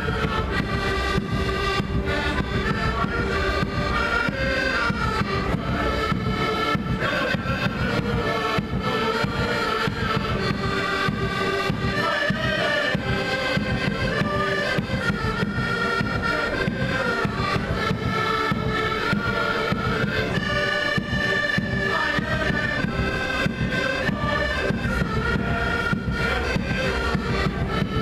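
Live music from a performing group: a melody over steady drumming.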